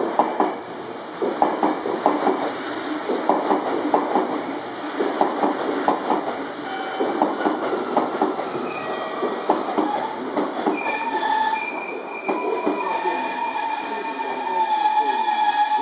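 A red Meitetsu electric train passing through the station, its wheels clicking rapidly over the rail joints. From about two-thirds of the way in, steady high whining or squealing tones join the sound.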